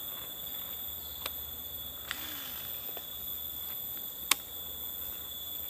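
Steady high-pitched chorus of forest insects, with a few sharp clicks. The loudest click comes a little after four seconds in.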